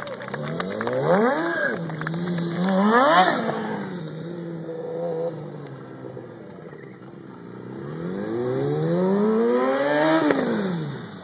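Stunt motorcycle engine revved in two quick blips, settling to a low steady idle between them, then wound up in one long climbing rev that drops off abruptly near the end.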